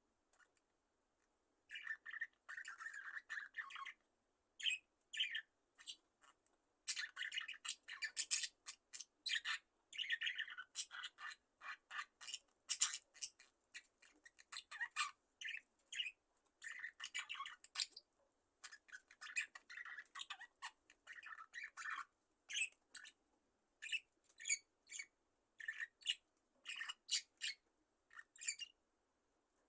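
A flock of budgerigars chirping and chattering in rapid bursts of short calls, starting about two seconds in and going on with brief pauses until just before the end.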